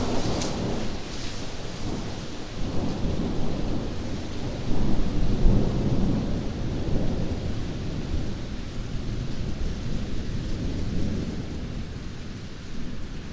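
Thunder over steady rain: a crackling clap at the start, then a deep rolling rumble that swells about five seconds in and slowly dies away.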